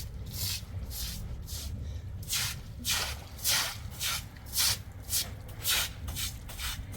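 Rhythmic rasping or scraping strokes, about two a second, over a steady low rumble.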